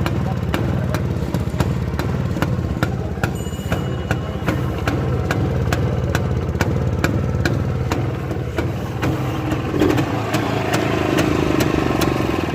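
Motorcycle engine idling steadily, with sharp regular clicks about twice a second and a slight rise about ten seconds in.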